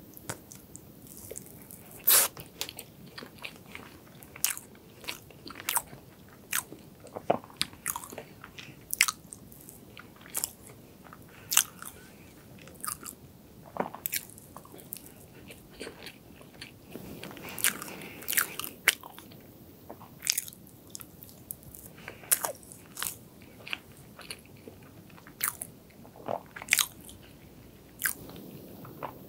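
Close-miked chewing of chocolate log cake with cream: wet mouth sounds with sharp clicks and smacks, about one a second at irregular intervals.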